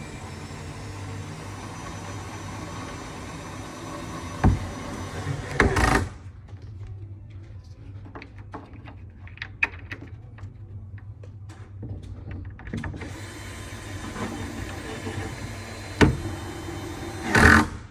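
Cordless drill running in two long stretches, driving screws into the bed frame, stopping suddenly about six seconds in and starting again around thirteen seconds. Between the runs come scattered clicks and a few sharp knocks from handling the wooden panels and screws.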